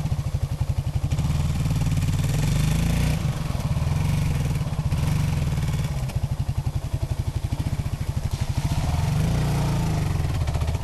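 Suzuki DR650 enduro motorcycle's single-cylinder four-stroke engine running at low revs, with evenly spaced firing pulses, picking up a little about two seconds in and again near the end.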